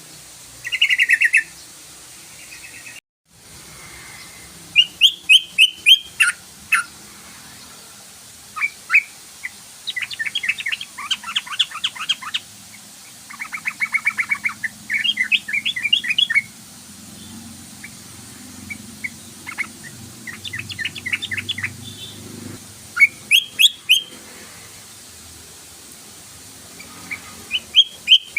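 Yellow-vented bulbul (trucukan) song: short phrases of rapid chattering notes repeated again and again, with a brief cut to silence about three seconds in.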